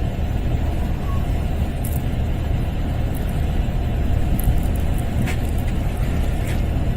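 Car running with a steady low rumble of engine and road noise, with a couple of faint clicks near the end.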